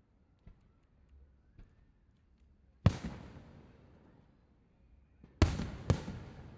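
Aerial fireworks shells bursting: one sharp boom about three seconds in, then two more in quick succession near the end, each trailing off in a fading rumble, with a few faint pops before them.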